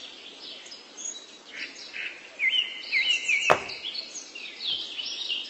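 Birds chirping: many short, high chirps, some in quick repeated runs, with a single sharp click about three and a half seconds in.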